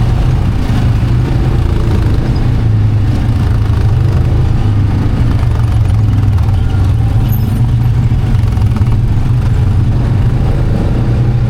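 ATV engine running steadily with a constant low drone, heard from on board while riding.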